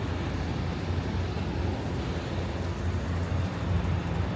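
Semi-truck's diesel engine running with a steady low rumble and a haze of road or cab noise.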